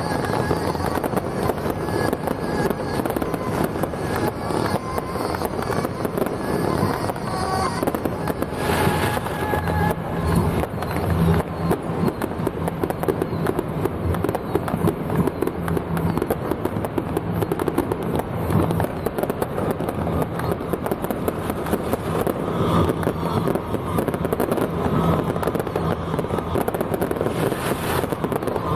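Fireworks and firecrackers crackling densely and without a break, many small bangs running together.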